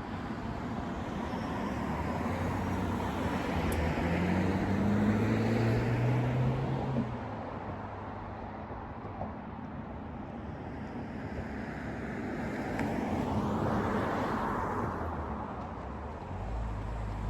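Road traffic passing: one car goes by with its engine note rising, loudest about five seconds in, and another passes around fourteen seconds in.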